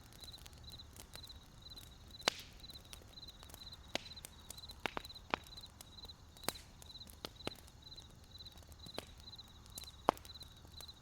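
Wood campfire crackling with irregular sharp pops, the loudest about two seconds in and near the end, over crickets chirping steadily in short high trills about twice a second.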